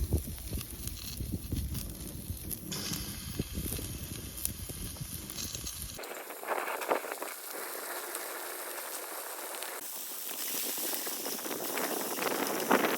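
Firewood burning in a wood stove, crackling and hissing. The first half carries low wind rumble on the microphone, which stops abruptly about halfway through, leaving brighter crackle and hiss.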